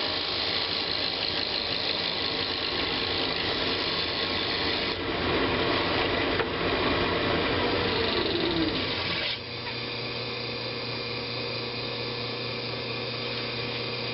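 Woodturning lathe spinning a wooden bowl blank while a turning tool cuts it, a steady motor hum under the scraping of the cut. The cutting gets louder around the middle, with a falling tone, then drops to a quieter steady cut about nine seconds in.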